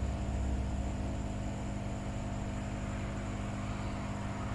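Steady background hum and hiss from workbench equipment, with a low rumble that eases after about a second; no distinct handling sounds.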